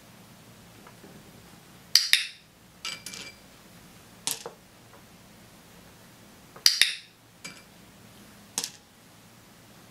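Sharp clicks and small hard objects clattering on a tabletop: a training clicker, toy animals being knocked over and jewel tokens being handed out. The sounds come in two loud clusters, about two seconds in and again near seven seconds, with lighter taps between.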